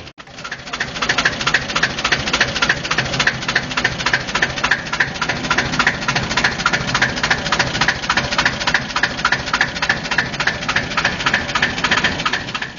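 Deutz diesel engine of a narrow-gauge field-railway locomotive running steadily, with a fast, even knock of its firing strokes, after a brief dropout right at the start.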